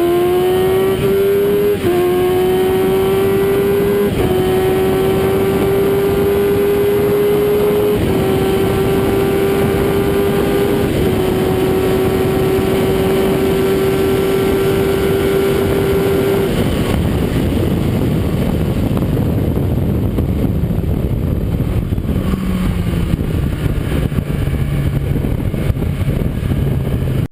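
Kawasaki ZX-10R inline-four engine at high revs, recorded on board, pulling hard through the upper gears with four quick upshifts, each dipping the pitch only slightly. About sixteen seconds in the throttle closes, and the engine note gives way to loud wind roar, with a lower engine note falling away near the end.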